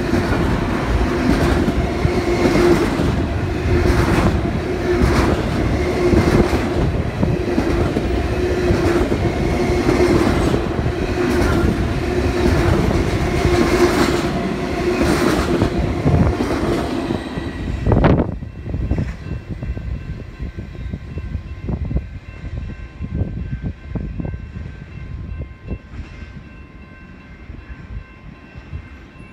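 Double-stack intermodal freight train passing close by, its wheels clattering in a steady rhythm. About two-thirds of the way through the last car goes by and the noise drops off sharply, leaving only a faint background.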